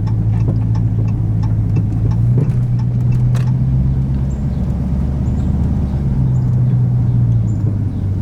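Dodge Scat Pack's 392 HEMI V8 running steadily at a low cruise with a loud, deep exhaust drone, heard from inside the car.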